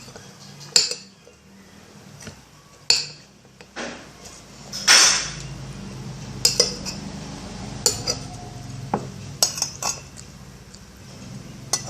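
Cutlery clinking and knocking against a plate while eating, in sharp separate strikes every second or so, the loudest about five seconds in, over a low steady hum.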